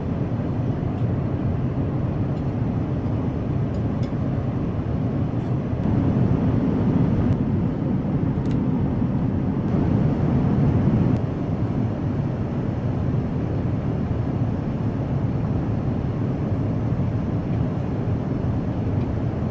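Airbus A380 cabin noise: a steady low rumble of engines and airflow, swelling a little for a few seconds near the middle.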